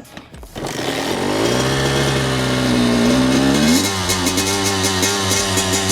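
Kawasaki KX85 dirt bike's two-stroke engine, fitted with a new FMF exhaust, revving up and holding. About four seconds in, music with an even beat comes in.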